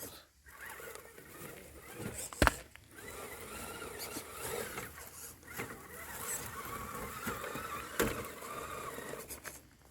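Element Enduro Bushido RC crawler's electric motor and gears whining faintly, the pitch rising and falling with the throttle as it crawls; the truck is nice and quiet. A sharp knock about two and a half seconds in, and another near eight seconds.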